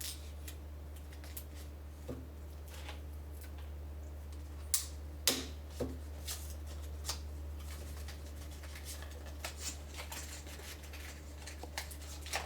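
Hands working at a tight puzzle-cube box to get it open: scattered clicks, taps and scrapes of the packaging, the sharpest pair about five seconds in, over a steady low hum.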